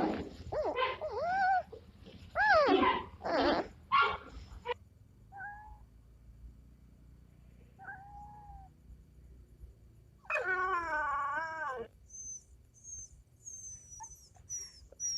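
Dog whimpering and whining: a quick run of short cries that rise and fall in pitch, two brief faint whines, then one longer wavering whine about ten seconds in, with faint high chirps near the end.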